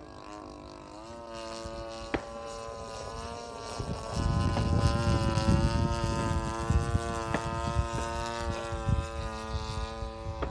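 Radio-control model airplane engine and propeller buzzing steadily in flight, rising a little in pitch about a second in and then holding. Wind buffets the microphone from about four seconds in.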